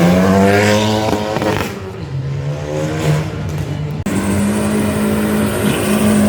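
Rally car engine revving hard: the pitch climbs, holds, drops back and climbs again, then after a sudden break about four seconds in it holds a steady high note.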